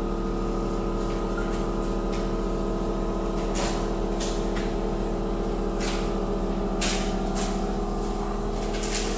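Steady hum of a running bonding machine, several fixed tones at an even level, with a few light clicks and taps as parts are handled and set in place.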